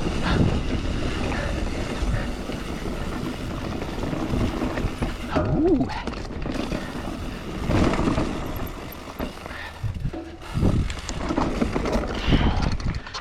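Mountain bike riding down a rough trail: wind buffeting the microphone and the bike rattling and clattering over bumps, with a brief rising-and-falling squeak about five and a half seconds in.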